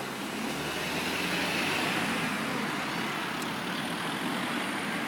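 City street traffic: a steady rush of road noise that swells about a second in, as of a vehicle passing.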